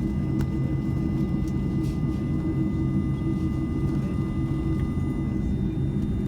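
Airbus A310-304's General Electric CF6-80C2 turbofan engines running at taxi thrust, heard from inside the cabin as a steady low rumble with a thin, steady whine above it.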